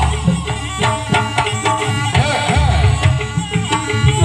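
Live Jaranan Buto accompaniment music: kendang hand drums beating a fast, busy rhythm under ringing gong-chime tones, with a melodic line bending up and down over the top.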